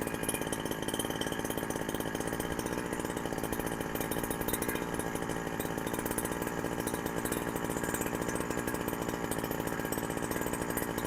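Husqvarna 372XP clone two-stroke chainsaw idling steadily on a genuine carburettor whose low-speed mixture screw has just been adjusted.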